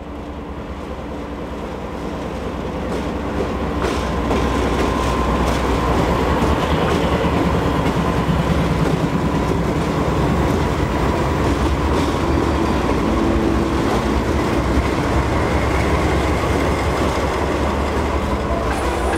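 CSX diesel freight locomotives approaching and passing close by, their engine drone growing louder over the first few seconds and then holding steady. Near the end the clicking and rumble of coal hopper car wheels on the rails follows.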